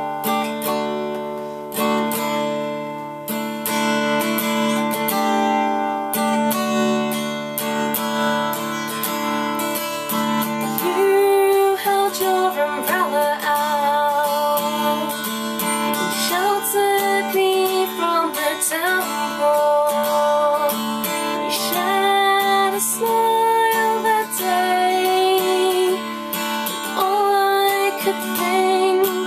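Acoustic guitar strummed as the introduction of a gentle original love song, with a voice singing a melody over it from about eleven seconds in.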